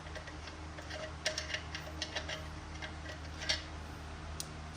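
Light clicks and taps of small hose fittings being handled, a quick cluster in the middle, over a steady low hum.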